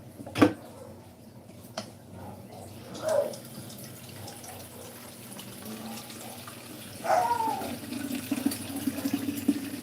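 Water running, as from a tap into a sink, with a sharp knock about half a second in and a lighter click soon after.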